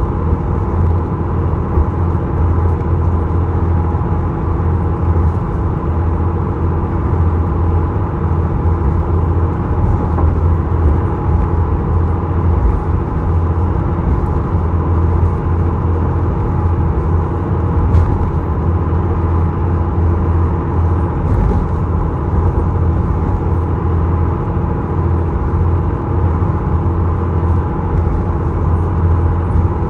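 Ferry's engine running steadily under way: a loud, unbroken deep drone with a few steady tones above it.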